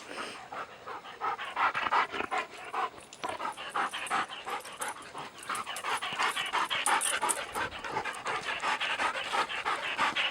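A dog panting hard and fast, out of breath from chasing a ball.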